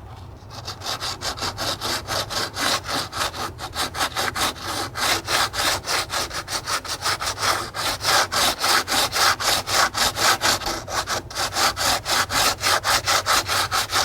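60-grit sandpaper rubbed by hand over cured Bondo fiberglass filler, in fast back-and-forth scraping strokes about four or five a second, smoothing the repair for paint.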